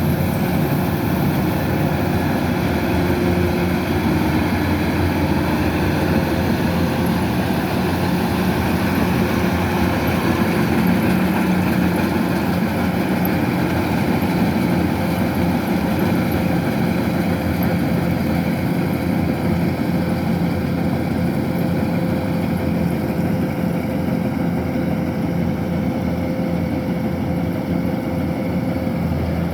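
Kubota DC-105X rice combine harvester's diesel engine running steadily at a constant pitch.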